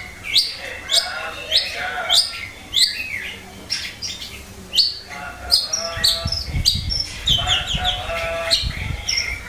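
Long-tailed shrike (cendet) calling repeatedly: sharp downward-sweeping notes about twice a second, mixed with lower chattering notes that grow denser about five seconds in. A low rumble runs underneath from about six to nine seconds in.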